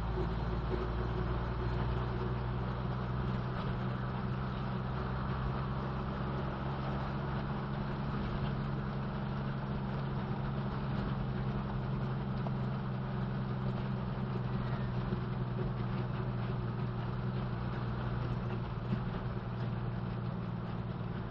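Old BMC truck's diesel engine running at a steady, unchanging speed, with no revving.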